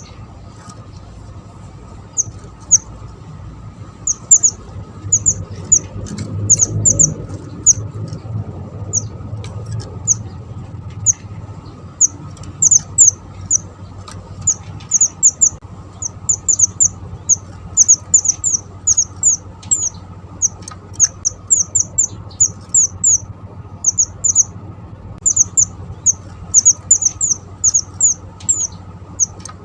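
Small Javan mantenan bird (a flowerpecker) calling continuously: very high, thin, short chips in quick runs of two to five, repeated with short pauses, over a steady low hum.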